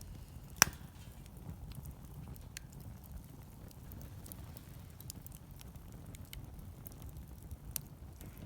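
Wood fire crackling, with scattered small snaps, a loud pop about half a second in and another near the end, over a low steady rumble.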